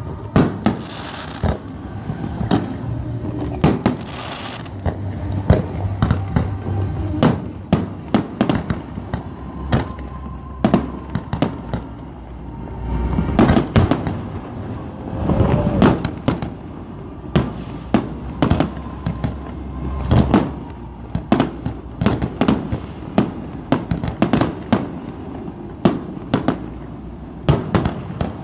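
Aerial fireworks display: shells bursting in quick succession, several sharp bangs a second, with a few heavier, longer booms along the way.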